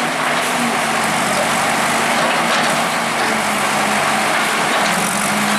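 Bulldozer's diesel engine running steadily with a low, wavering hum under a loud, even rushing noise.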